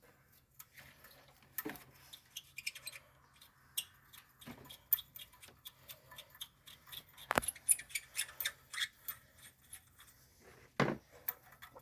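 Hand tools working on engine parts during a top-end teardown: irregular small clicks and metal clinks, at times several a second, with sharper knocks about seven and a half and eleven seconds in.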